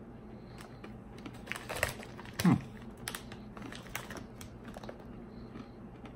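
A person chewing crunchy Bugles corn snacks with the mouth closed: scattered small crunching clicks. A little under halfway through comes one short hum of the voice, falling in pitch.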